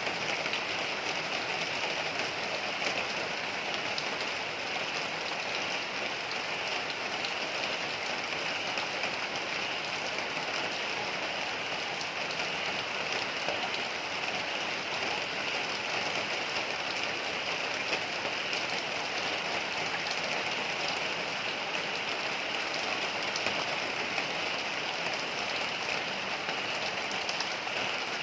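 Heavy rain falling steadily, a dense even hiss with a fine patter of drops.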